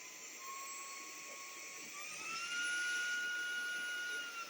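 Cordless stick vacuum's motor running with a steady high whine. It speeds up to a higher-power setting about two seconds in, rising in pitch and getting louder, then drops back to the lower speed near the end.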